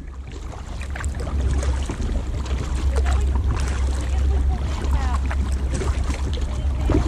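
Kayak paddling on a river, with a steady low rumble of wind on the microphone and scattered short splashes and knocks.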